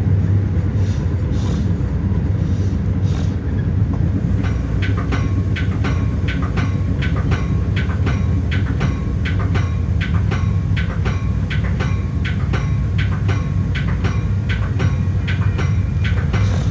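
Metra commuter train running, heard on board: a steady low rumble and hum. About four seconds in, a rapid, regular clicking with a short metallic ring to each click sets in, about two to three a second.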